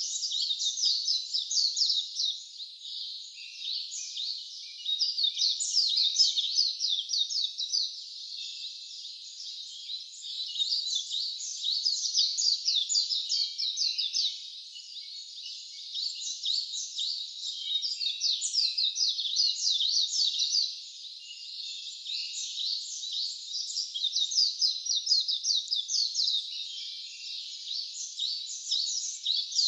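A dense chorus of high-pitched chirping calls, many quick falling notes, coming in phrases a few seconds long that swell and fade.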